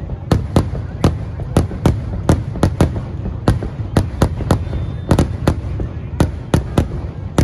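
Aerial firework shells bursting in quick succession, about three sharp bangs a second at uneven spacing over a continuous low rumble.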